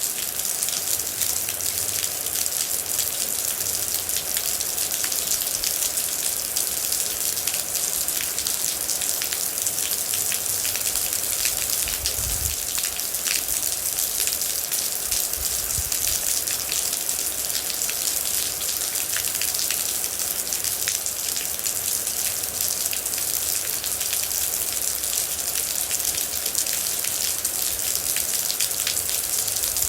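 Steady rain: a dense, even hiss of rainfall with many individual drops ticking on a surface.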